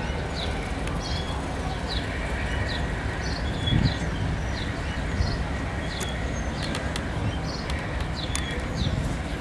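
A bird chirping over and over, about two short calls a second, over a steady low rumble. A few sharp clicks come near the end.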